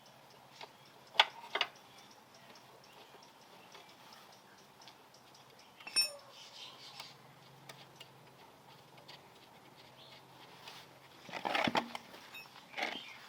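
A few sharp clicks and knocks, one with a short metallic ring about six seconds in, and a brief rattling cluster near the end, over a faint steady hum.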